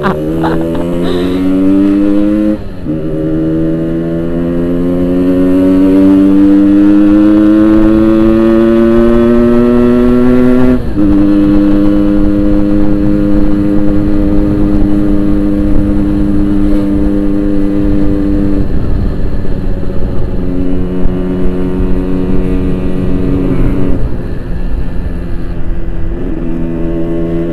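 Yamaha RX-King 135cc two-stroke single-cylinder engine with a Boban aftermarket exhaust, pulling through the gears on the move: the pitch climbs, drops at gear changes about two and a half and eleven seconds in, then holds at a steadier cruise with small throttle changes.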